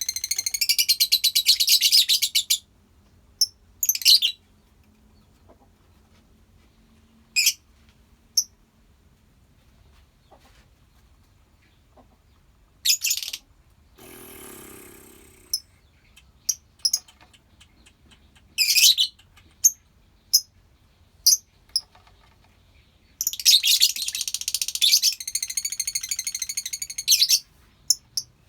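Lovebirds chattering in two dense bursts of rapid high-pitched calls, one at the start and one near the end. Isolated sharp single chirps come in between, and a brief softer noise falls about halfway through.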